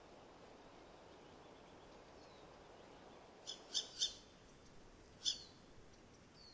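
Bird calling over a faint steady background: three short, high calls in quick succession about three and a half seconds in, then one more about a second later.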